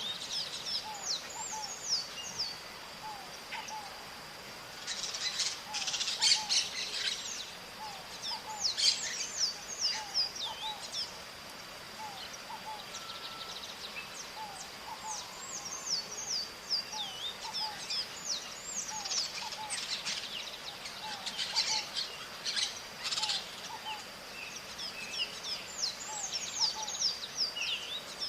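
Several maritacas (small parrots) calling: rapid series of quick falling chirps, with louder harsh screeching bursts around the sixth, ninth and twenty-first seconds. A steady high tone runs underneath.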